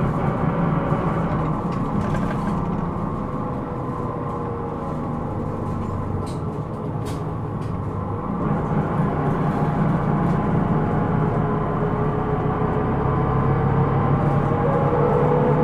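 Interior running sound of a Hino Rainbow II (SDG-KR290J1) non-step bus under way: the diesel engine and drivetrain hum, easing off for a few seconds and pulling harder again from about halfway, with whining tones that glide in pitch. This bus is one noted for an abnormal noise (異音).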